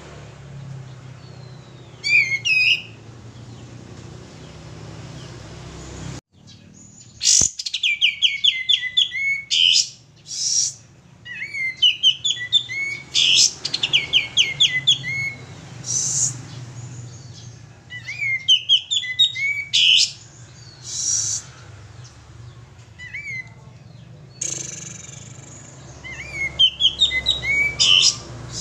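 Male sooty-headed bulbul (kapas tembak) singing in full voice, in repeated phrases of quick chirping notes each lasting a second or two, with short pauses between.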